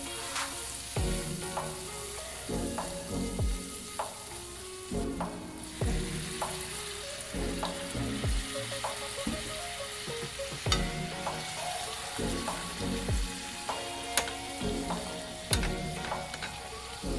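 Spiced onion-tomato masala sizzling and frying in a pan while being stirred, with background music beating regularly underneath.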